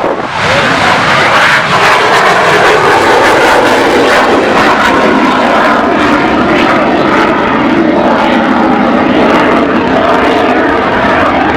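CF-18 Hornet fighter jet's twin engines at full power for its takeoff roll: loud, steady jet noise that swells sharply in the first half second and holds.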